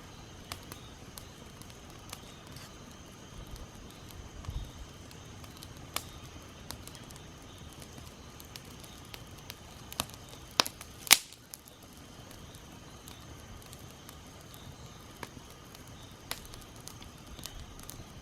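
Small campfire of thin twigs and straw crackling, with scattered sharp pops and two loud pops close together a little past the middle.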